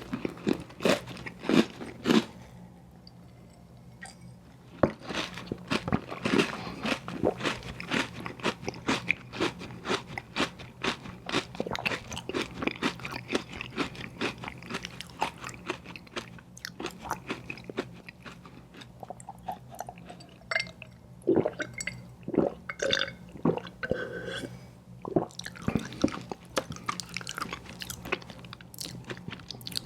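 Close-miked eating of an ice cream sandwich: crunchy bites and steady wet chewing, with a brief lull about three seconds in.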